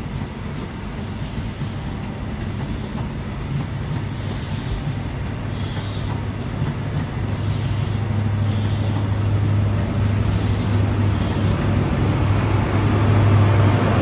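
InterCity 125 HST pulling slowly away: Mark 3 coaches rolling past over the rails. The steady hum of the rear Class 43 power car's diesel engine grows louder through the second half as it draws near.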